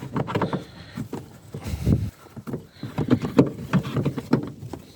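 Small plastic light-fitting covers being handled and tried into place on a car's rear light, making irregular clicks, taps and knocks.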